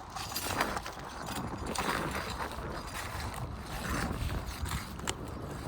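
Asphalt roof shingles being pried up and their nails loosened with a tool: a few short scraping, creaking strokes over a steady low rumble.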